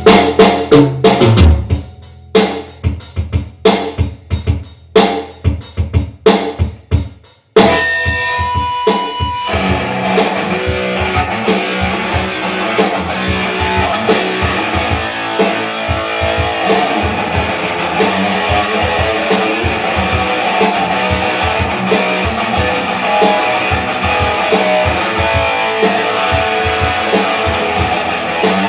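Instrumental section of a rock song played on drums and electric guitar. For about the first seven seconds the band plays sharp stop-start hits together. After a brief break, the full band comes in with sustained, distorted electric guitar over the drums.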